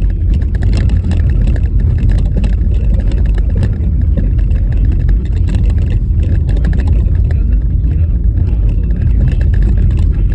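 Car driving on a rough, bumpy snow-covered road: a loud, steady low rumble of tyres and suspension, with many small knocks and rattles throughout.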